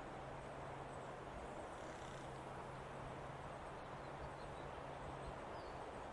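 Forest ambience: a steady, even rush of outdoor noise with a low hum under it that stops near the end, and a few faint, short bird chirps high above.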